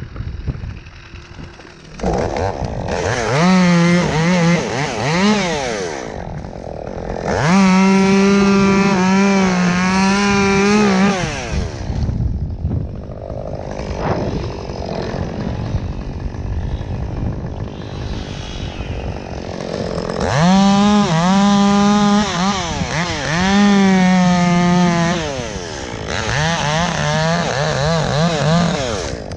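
Two-stroke chainsaw revved to full throttle in five bursts of a few seconds, its pitch wavering under load as it cuts wood, dropping back toward idle between cuts.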